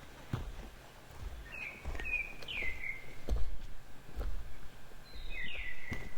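A small bird calling: short chirps that slide down in pitch, a group of three or four from about a second and a half in and another group near the end. Several dull low thumps sound in between, the loudest a little past the middle.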